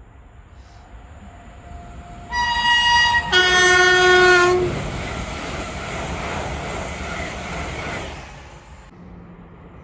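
A passing train sounds its two-tone horn, a higher note for about a second followed straight away by a lower note, over the rising noise of the train. The train's running noise stays loud for a few seconds after the horn and drops away near the end.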